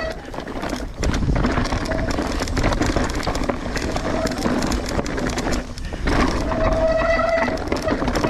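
Mountain bike riding down a wet trail in the rain: steady noise of the tyres, spray and rattling over the ground. Near the end a high pitched squeal holds for about a second.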